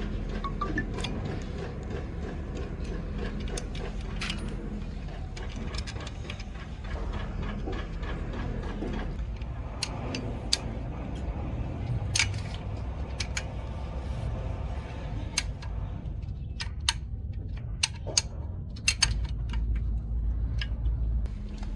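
Hand tools and metal engine parts clicking and clinking irregularly during diesel engine work, over a steady low hum.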